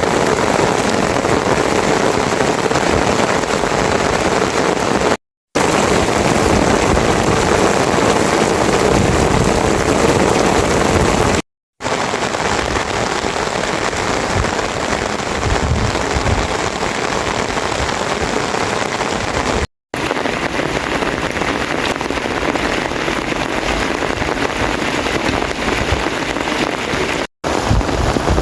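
Heavy rain falling steadily, a dense, even hiss. It cuts out to silence for a split second four times, about five, eleven, twenty and twenty-seven seconds in.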